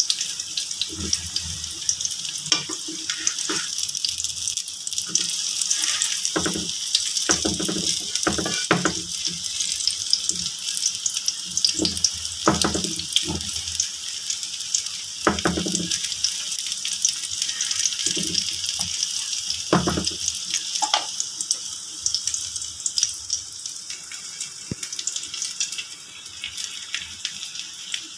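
A cabbage-and-egg pancake sizzling in oil in a frying pan, a steady high hiss. Short knocks and scrapes come now and then, mostly in the middle stretch, where a wooden spatula works at the pan.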